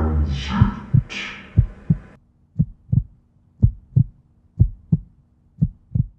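Heartbeat sound effect: paired lub-dub thumps about once a second, with swishing noise over the first two seconds and a steady low hum beneath from about two seconds in. It cuts off abruptly at the end.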